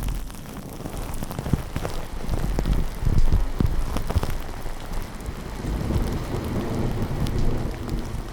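Steady rain falling, with a low rumble of thunder that swells about three seconds in and again later.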